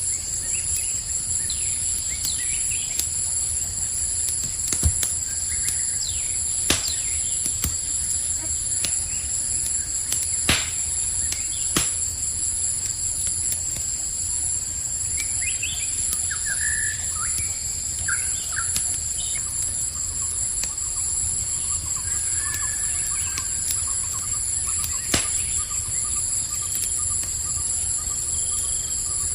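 Campfire crackling, with a handful of sharp pops from the burning wood, over a steady high chirring of crickets. A few short bird chirps come in midway.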